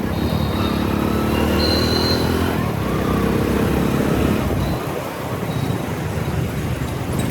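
Motorcycle engine running while riding through city traffic, with steady road and traffic noise around it. The engine note stands out for the first four seconds or so and then sinks back into the traffic noise.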